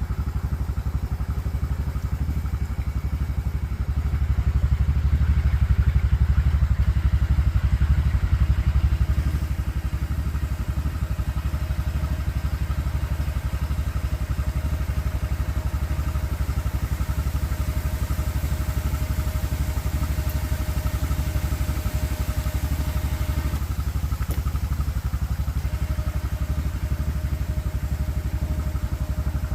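A small engine idling steadily, a little louder from about four to nine seconds in.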